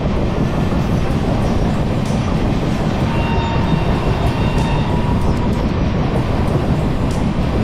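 Farakka Express passenger coach running along the track, a loud steady rumble of wheels on rails. A faint high whine rises over it for a couple of seconds in the middle.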